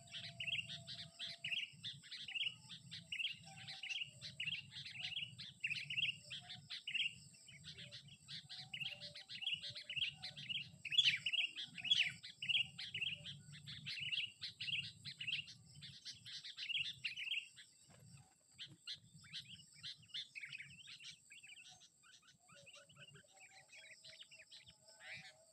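Sooty-headed bulbul (kutilang) chirping in quick short calls, about two a second, thinning out to scattered calls after about seventeen seconds. A faint low rumble runs underneath.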